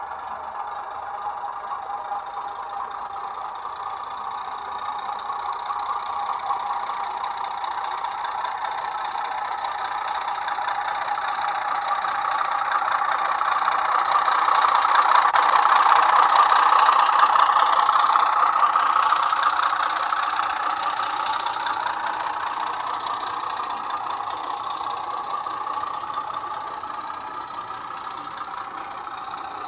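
00 gauge model diesel locomotive running on the layout, its diesel engine sound growing louder as it nears, loudest about halfway through, then fading as it moves away.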